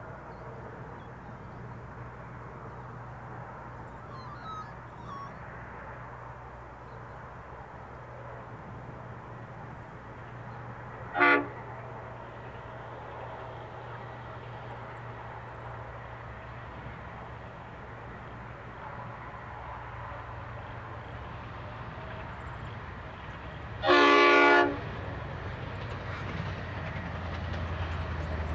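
Diesel freight train locomotives G520 and BL26 approaching, their engines a steady low drone that grows louder over the last few seconds. The lead locomotive's horn sounds twice: a short toot about a third of the way in, and a longer blast of nearly a second about five seconds before the end.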